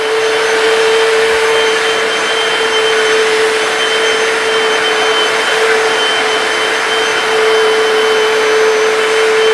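Hoover PowerDash hard floor cleaner running steadily while wet-cleaning a tile floor: a rushing suction noise with a steady whine from its motor.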